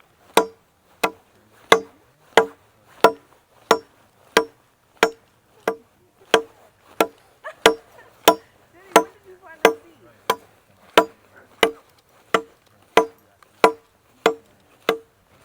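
Machete chopping into wood in a steady rhythm, about three strikes every two seconds, each a sharp knock with a short ring.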